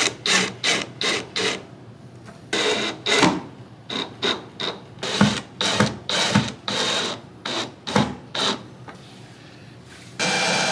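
Hand work on wood: a run of short rubbing and scraping strokes at an uneven pace, with a few longer scrapes between them.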